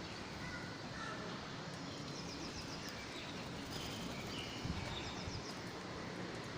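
Outdoor background noise with faint, scattered bird calls: a few short chirps early on and a quick run of high chirps about two seconds in.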